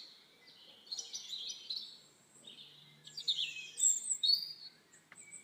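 Small birds chirping and twittering in quick high runs, in two clusters: about a second in, and again from about three seconds in.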